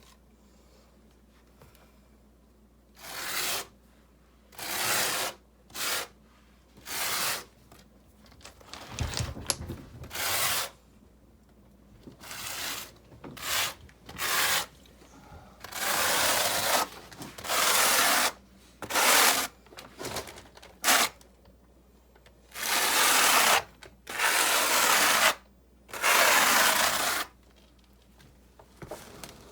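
Rough scraping strokes of a masonry tool on mortar and rock, about twenty of them. They start short and spaced out, and from about halfway through they are longer, a second or more each.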